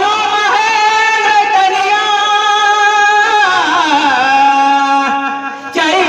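A voice singing Marathi mangalashtak wedding verses, holding long, wavering notes that glide from pitch to pitch, with a short break about five and a half seconds in.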